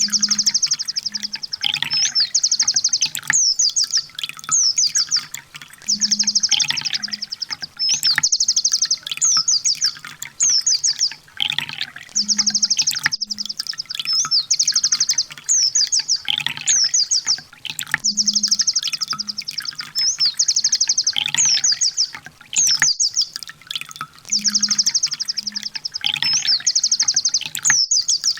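Sunbird song on a looped training recording: a fast, high trill followed by a few quick downslurred notes, the same phrase repeating about every six seconds.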